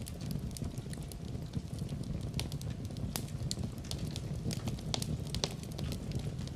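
Fire in a fireplace crackling, with frequent small pops over a low, steady rumble. Sharper pops stand out about three seconds in and again near five seconds.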